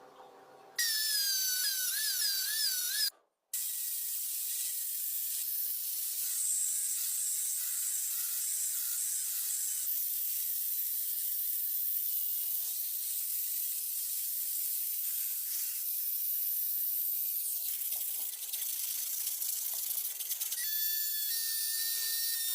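High-speed rotary tool scrubbing rust off a steel pipe wrench: a steady high hiss over a thin motor whine. The whine wavers in pitch at first, the sound breaks off briefly about three seconds in, and the whine steadies again near the end.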